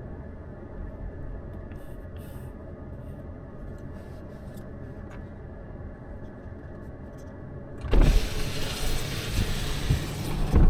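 Steady low road hum inside a moving car; about eight seconds in, a sudden loud rushing noise takes over.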